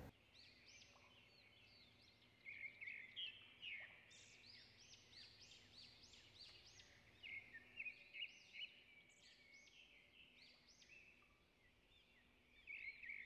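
Faint birdsong: many short chirping calls overlapping, coming in bursts a couple of seconds in, again around eight seconds, and near the end.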